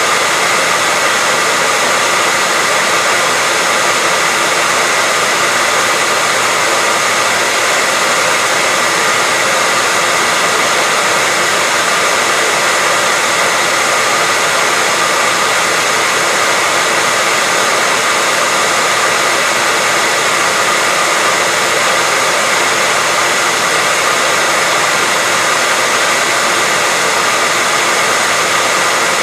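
Electric hair dryer running steadily: a constant, even rush of air with a faint steady whine.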